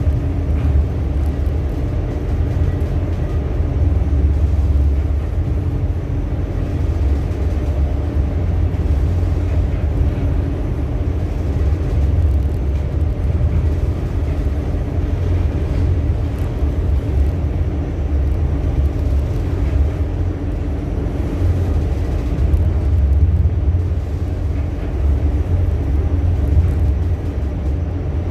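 Ship's engine and machinery droning steadily, a deep rumble with a faint steady hum above it.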